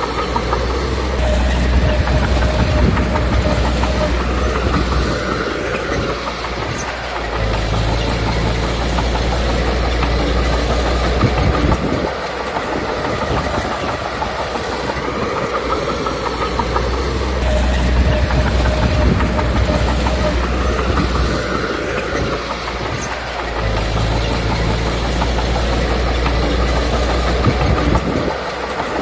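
Komatsu D21P crawler bulldozer working: its diesel engine runs hard and eases off in repeated cycles, with the crawler tracks clanking and rattling throughout.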